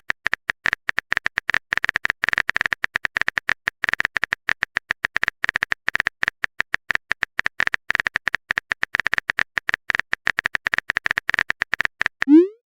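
Rapid, irregular tapping clicks of a phone-keyboard typing sound effect, many keystrokes a second without a break.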